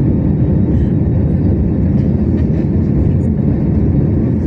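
Steady cabin noise of an Airbus A321neo climbing out after takeoff: its Pratt & Whitney PW1100G geared turbofans at climb power and the rush of air, heard inside the cabin as a loud, even low rumble.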